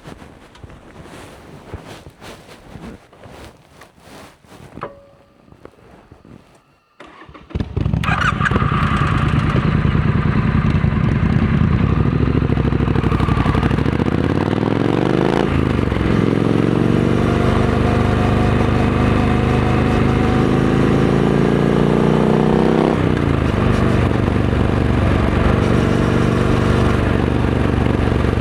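Triumph Scrambler 900 parallel-twin engine with a Vance & Hines exhaust, started about seven seconds in after some faint handling noise. It then runs loud and steady, its pitch rising and falling twice as it is revved.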